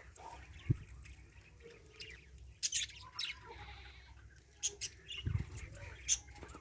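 Budgerigars chirping in short, scattered calls, with a soft knock just under a second in.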